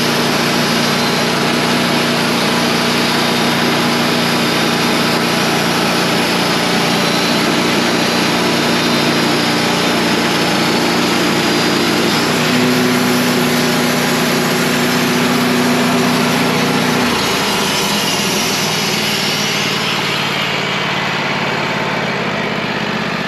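Wood-Mizer portable band sawmill running steadily, its engine under load as the band blade cuts through a log. About seventeen seconds in the engine note drops, and the high cutting hiss then fades as the cut ends.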